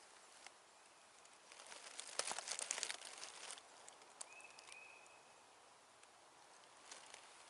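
Dry leaf litter rustling and crackling close by for about two seconds, then two short high notes of steady pitch in quick succession.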